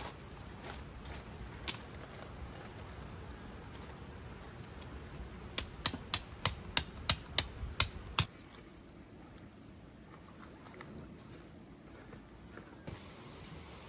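Insects chirring in a steady high band, with a run of about nine sharp knocks a little past the middle, about three a second. The insect sound drops away near the end.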